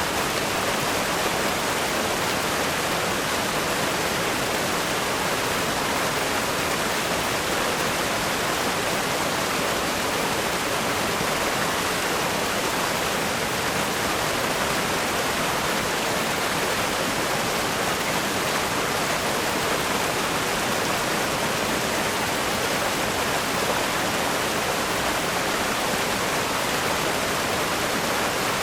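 River rapids rushing over rocks: a steady, dense roar of white water with no let-up.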